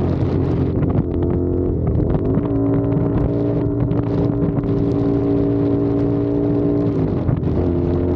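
CFMOTO 450SR parallel-twin engine running under way, its note rising about two seconds in, holding steady at cruising revs, then falling near the end as the throttle comes off.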